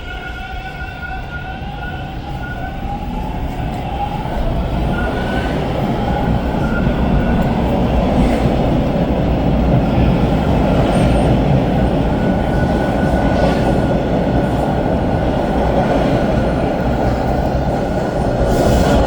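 TTC Line 2 subway train pulling out of the station: its traction motors whine upward in pitch as it accelerates, over a rumble of wheels on rail that grows louder over the first few seconds and then holds steady.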